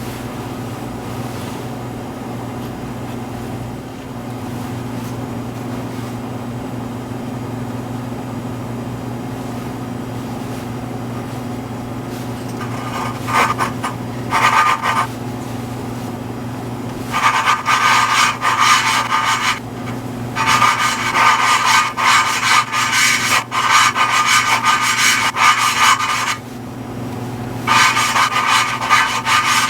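Intake valve being ground against its seat in a BMW 325xi cylinder head: a suction-cup lapping tool is twisted back and forth by hand with valve grinding compound, giving gritty rubbing in spells of a few seconds each, starting a little before halfway in. A steady low hum runs underneath throughout.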